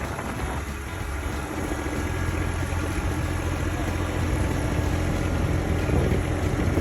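Tractor engine running steadily, a low drone that grows gradually louder.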